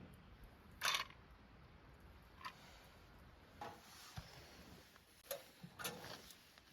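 A few irregular short clicks and knocks over a faint steady hiss, the loudest about a second in.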